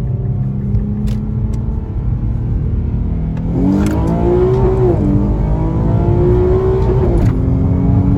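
Car engine accelerating over a heavy low rumble: its pitch climbs from about halfway through, drops sharply, then climbs again and drops near the end, like a car pulling away through upshifts.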